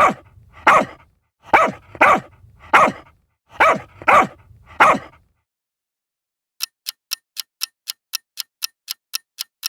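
A dog barking, about eight sharp barks in quick succession over the first five seconds. After a short pause, a steady clock-like ticking at about four ticks a second takes over.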